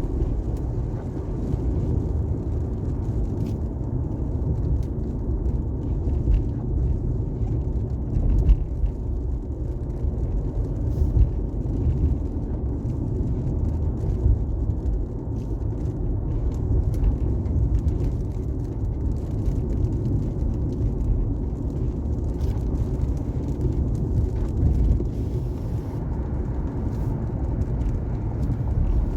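A car driving on a highway in the rain: a steady low rumble of tyres and engine, with faint scattered ticks.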